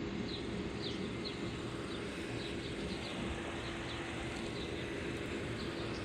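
Steady road and engine noise of a car driving, with a low even hum. Faint short high chirps come through over it several times.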